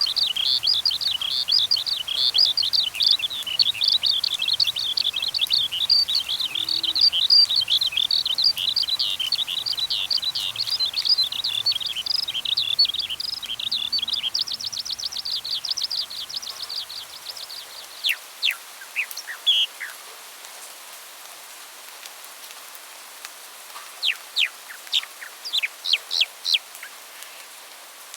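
Small songbirds chirping in a rapid, dense chatter for about half the time, ending in a fast trill, then a few sharp, falling single calls with pauses between them, over a steady faint hiss.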